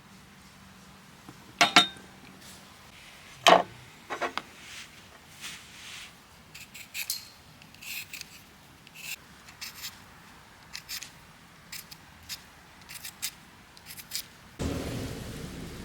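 Small objects being handled: a string of light clicks, taps and scrapes, with two louder knocks about two and three and a half seconds in. A steady hiss starts near the end.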